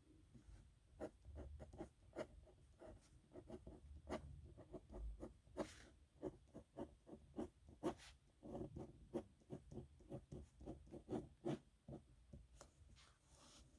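Faint scratching of a metal nib pen across paper in many short, uneven handwriting strokes.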